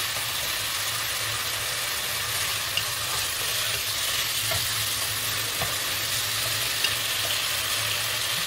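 Chili spice paste, prawns and lemongrass sizzling steadily in hot oil in a nonstick pot while a plastic spatula stirs and scrapes them, with a few light clicks of the spatula. The paste is at the stage of frying until its fragrance comes out.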